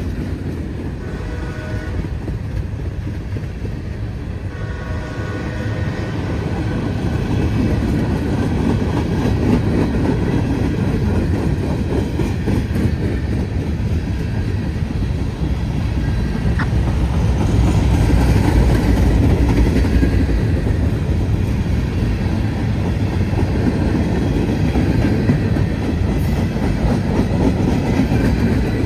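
Norfolk Southern freight train led by EMD SD40 and SD50 diesel-electric locomotives approaching and passing, a deep diesel rumble with wheels clattering over the rails. It grows louder through the first part and is loudest about two-thirds of the way in.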